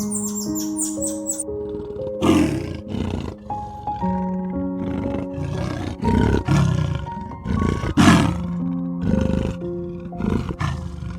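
Soft instrumental music with a large animal calling over it in a series of loud, rough calls, about one a second from about two seconds in.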